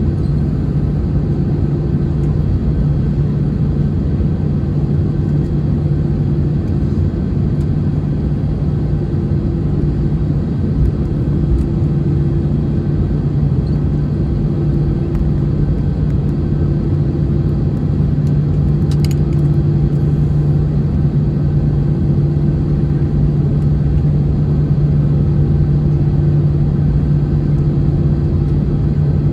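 Steady low rumble and hum inside the cabin of an Airbus A321-211 with its CFM56 engines running, with a second, higher tone that swells and fades every few seconds.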